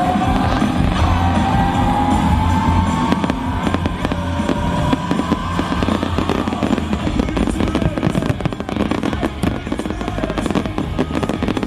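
Fireworks display: many sharp bangs and crackles over loud show soundtrack music, with a slow rising tone in the first few seconds.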